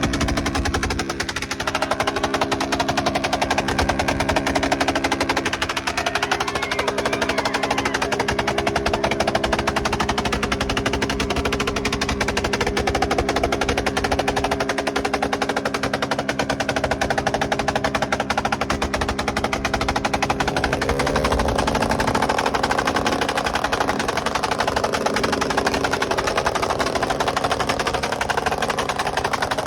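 Motorcycle engine running at a steady speed, its exhaust a rapid, even stream of pulses. The pitch shifts slightly about two-thirds of the way through.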